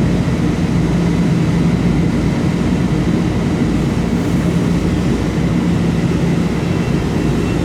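Metro-North commuter train running loud and steady at the station: a continuous low rumble with a steady hum.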